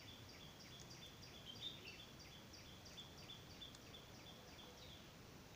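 Faint bird calling: a rapid run of short, high chirps, about three a second, alternating between two pitches, which stops about five seconds in.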